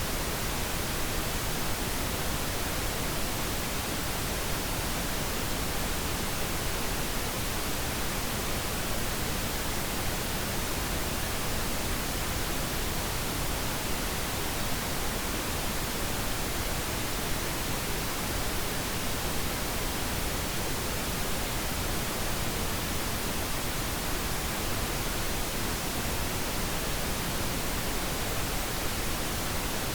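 Steady pink noise: an even, unbroken hiss across the whole range, without any change.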